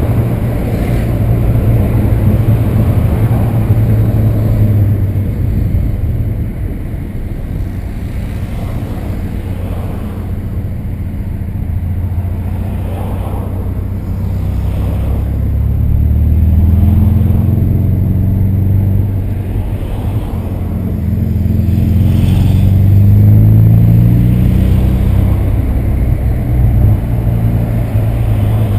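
Volkswagen Santana's AP 2.0 four-cylinder engine heard from inside the car as it drives. The engine note climbs and gets louder twice as the car accelerates, once midway and again near the end.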